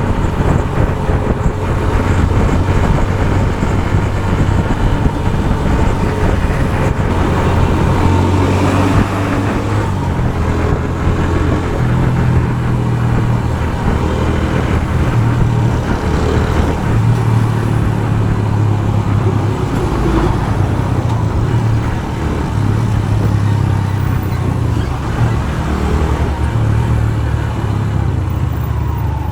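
Motorcycle engine running under way through traffic, its note stepping up and down a few times as the speed changes, over steady road and traffic noise.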